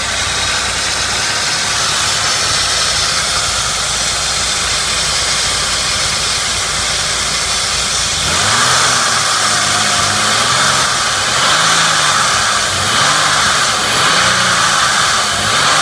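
2003 Ford Escape's 3.0-litre V6 idling steadily, then revved up and back down about five times in a row in the second half, running smoothly.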